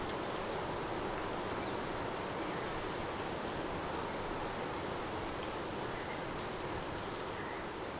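Steady rain ambience, an even hiss of falling rain, with a few faint high chirps scattered through it and the level easing slightly near the end.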